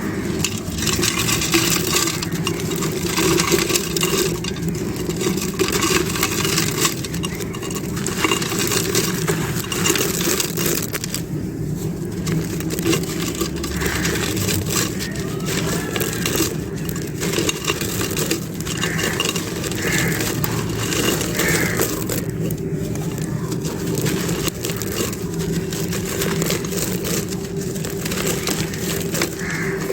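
Dry clay being crumbled and crushed: a continuous dense crunching and crackling with many small sharp cracks.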